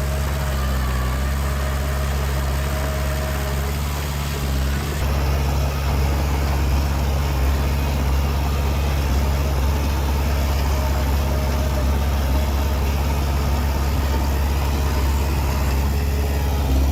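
Diesel engine of heavy earthmoving machinery running steadily at low revs, a little louder from about five seconds in.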